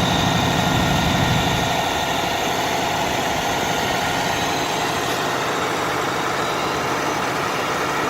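Cummins ISX15 diesel of a Kenworth T800 hydro excavator truck running steadily, with a thin steady high whine over the engine sound; slightly louder for the first second or so, then even.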